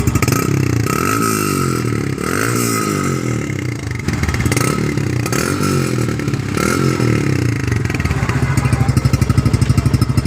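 Yamaha FZS V2's single-cylinder engine through its modified exhaust, revved in about five quick throttle blips that rise and fall, then settling back to a steady, pulsing idle near the end.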